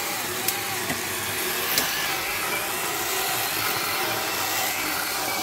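Chainsaw engine running steadily while cutting firewood logs, its pitch wavering, with a couple of sharp knocks.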